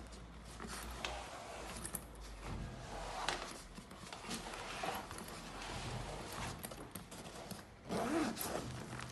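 Zipper on a fabric cooler backpack being pulled in a series of short, uneven strokes, with scraping and rustling of the bag as it is handled.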